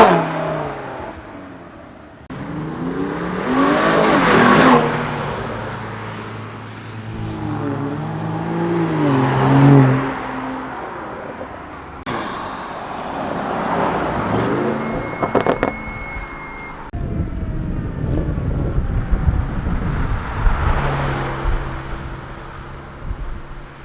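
Cars accelerating past one after another, each engine rising in pitch as it revs up and goes by, about four pass-bys in all; from about two-thirds in a lower, rougher engine rumble takes over.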